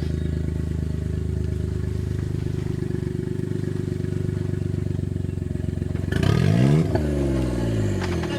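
Suzuki Jimny JA11 off-road competition vehicle's engine running at steady low revs, then revved up sharply for about a second about six seconds in before dropping back.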